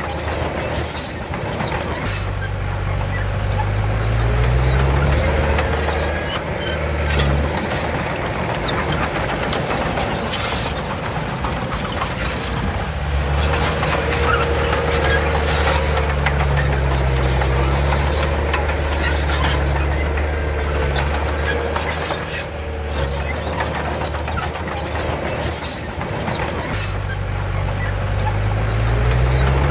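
Komatsu D31 crawler bulldozer's diesel engine working under load, revving up and settling back several times, with a squeal and scattered clanks from the running gear.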